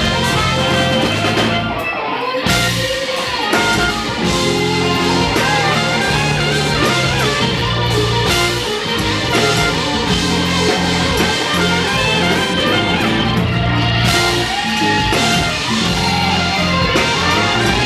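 Live band playing a soul-rock song, with electric guitar, bass and a drum kit. There is a brief break in the cymbals about two seconds in.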